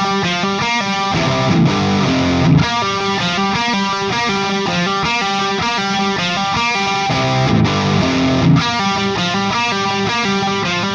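Distorted electric guitar playing a repeating riff of quick picked notes, with heavier low chords about every six seconds.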